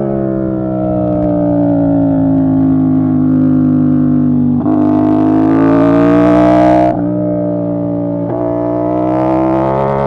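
2025 CFMoto 450SR S's 449 cc parallel-twin engine running. Its pitch sinks slowly, breaks sharply about halfway and climbs, then drops abruptly and rises again near the end.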